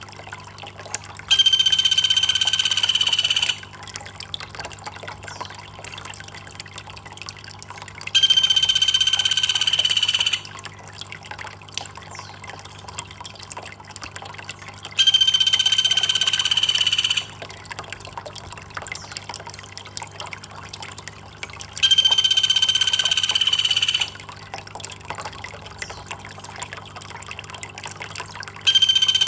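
Water trickling steadily. Over it, a loud, steady, high-pitched call lasts about two seconds and repeats every seven seconds or so, five times in all.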